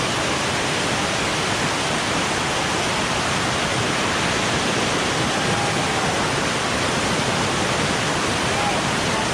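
Waterfall rushing close by: a steady, unbroken roar of falling water.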